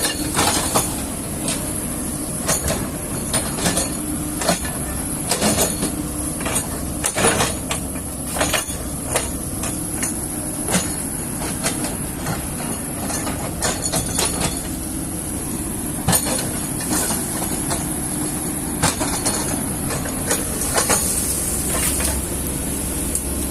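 Kobelco excavator running steadily with a low engine hum, under frequent irregular knocks and clanks.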